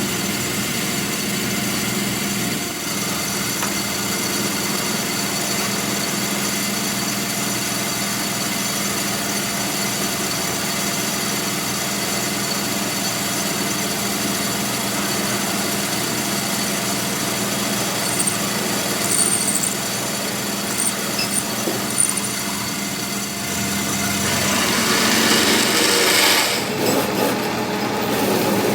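A workshop machine running steadily with an even hum. Near the end a louder, rougher noise comes in for a few seconds, typical of the tool working metal.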